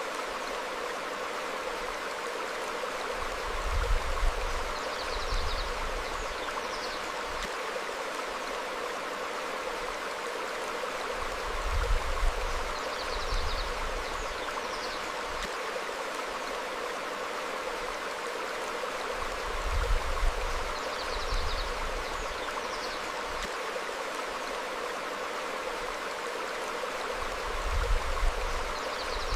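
Stream flowing over rocks: a steady rushing of water. Short high bird chirps come in pairs about every eight seconds, each with a low rumble that is the loudest sound in the mix.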